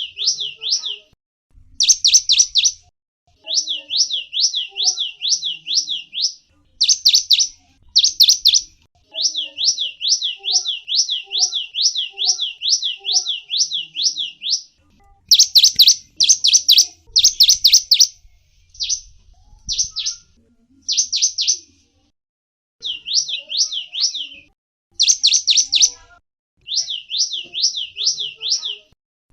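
Small songbird (gelatik wingko) singing in rapid high trills: quick chirp notes, each sweeping downward, repeated about eight times a second in phrases of one to several seconds with short pauses between.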